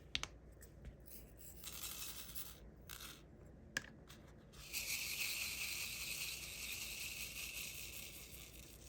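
A few light plastic clicks, then from about five seconds in a steady, high, hissing rattle of many tiny resin diamond-painting drills moving in a tray or container, fading slowly near the end.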